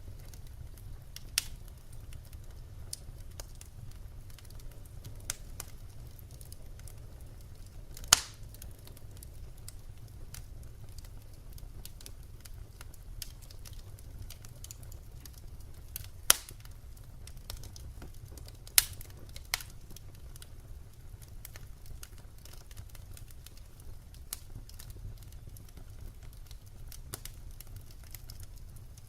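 Wood fire burning: a low steady rumble with scattered soft crackles and an occasional sharp pop from the burning logs, three pops standing out well above the rest.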